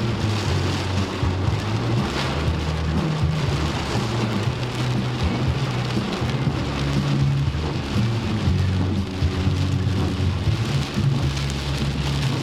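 Heavy storm rain pouring down and drumming steadily on surfaces, with a low hum or drone underneath.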